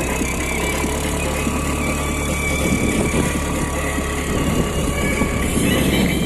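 Car driving, with a steady engine hum and road noise.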